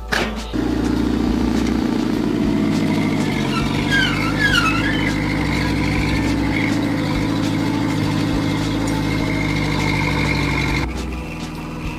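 An old bulldozer's engine running steadily, with a few short high chirps about four seconds in; the engine note drops in level near the end.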